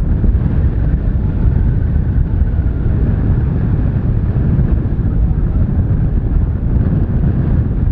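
Airbus A330-243's Rolls-Royce Trent 700 jet engines: a loud, steady rumble as the airliner lands.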